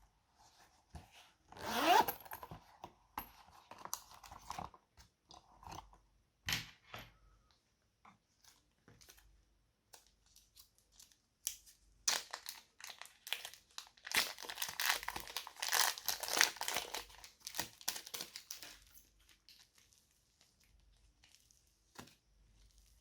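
Slime being worked by hand, giving crackling, crunching and popping clicks in uneven bursts. The busiest stretches come about two seconds in and again from about fourteen to nineteen seconds in, with sparser clicks in between.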